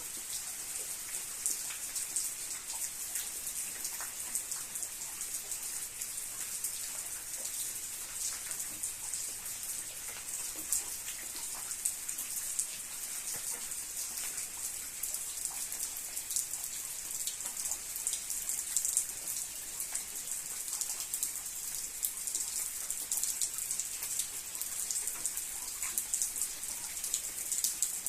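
Steady rain falling, a continuous high hiss sprinkled with the ticks of individual drops.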